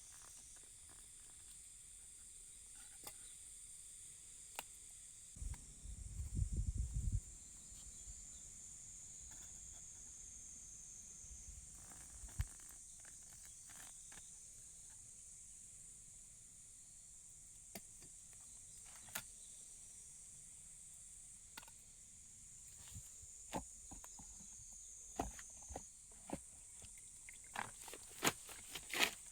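Steady, faint high-pitched insect drone outdoors, with scattered light clicks and knocks and a brief low rumble about six seconds in.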